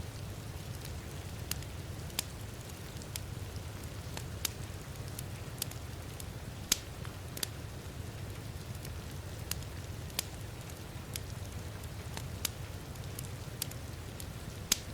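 Wood fire crackling in a fireplace, with irregular sharp pops a few times a second, the loudest about two-thirds of the way through and near the end. Underneath are a steady low rumble and a soft hiss of rain.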